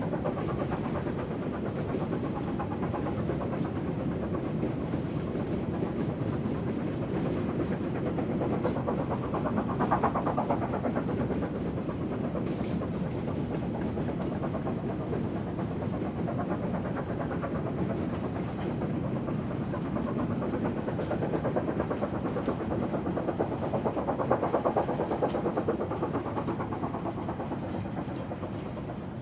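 China Railways QJ-class steam locomotive running on the line: steady train noise that swells twice, about ten seconds in and again near the end.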